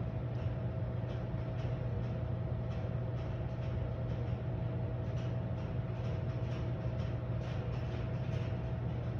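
Steady electrical hum and fan noise of an industrial robot controller cabinet: a low drone with a thin higher tone held over it and faint scattered ticks.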